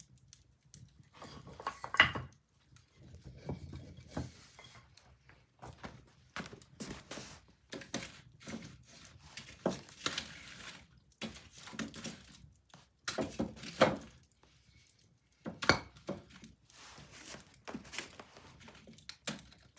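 Wood fire burning in a fireplace: irregular crackles and pops, with a few louder snaps scattered among them.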